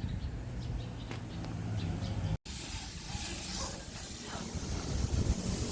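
A low steady hum, then, after an abrupt cut about two and a half seconds in, a steady high hiss of air from a paint spray gun.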